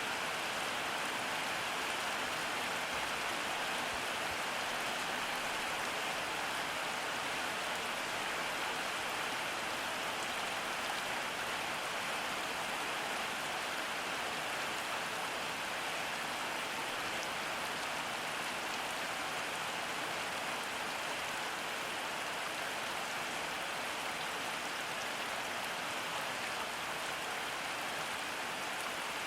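Steady rain falling, an even hiss of rain on surfaces with no let-up.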